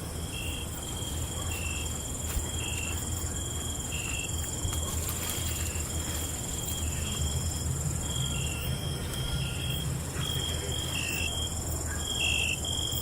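Night chorus of crickets and other insects: a steady high trill with a shorter chirp repeating about once a second beneath it, over a low steady rumble.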